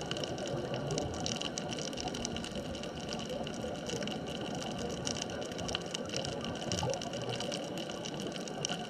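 Underwater ambience at a sunken bridge-span reef: a steady wash of water noise with a fine crackle of clicks and a faint steady high hum.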